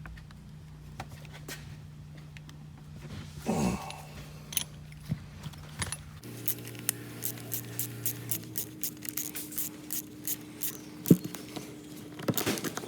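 Metal hand tools and turbocharger parts clinking and tapping during a teardown, over a steady hum. From about halfway there is a dense run of small clicks, with one sharp metallic knock near the end.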